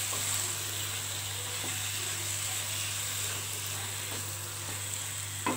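Fried chicken pieces in onion-tomato masala sizzling steadily in a nonstick kadai as a wooden spatula stirs them, over a steady low hum.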